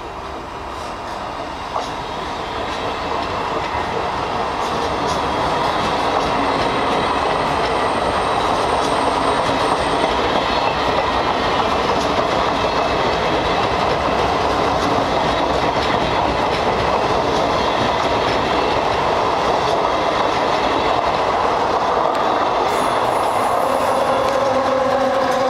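A train running past on the tracks, getting louder over the first few seconds and then staying steady, with the wheels clicking over the rail joints. A steady low tone comes in near the end.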